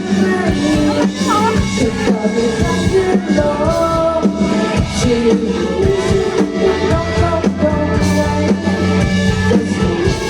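A student rock band playing live: electric guitar, bass and drums, with singing.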